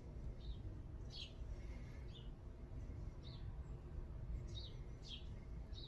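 A small bird chirping faintly: short, high, falling chirps every half second to a second or so, over a low steady room hum.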